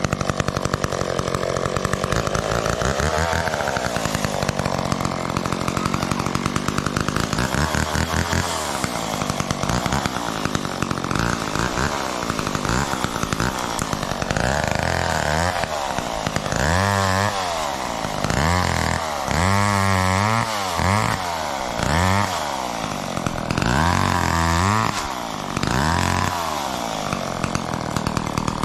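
McCulloch Mac 10-10 two-stroke chainsaw running continuously while cutting. Its engine pitch repeatedly drops and climbs back, about every second or two in the second half.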